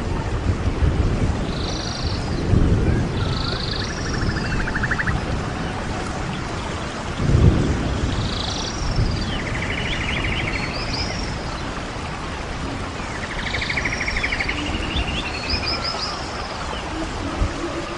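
Birds calling again and again in short phrases, some of them buzzy trills, over a steady low rumble of wind with a couple of stronger gusts.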